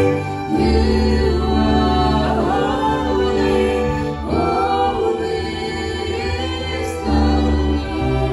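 Worship music: singing voices over sustained chords and a held bass line, the chords changing every couple of seconds.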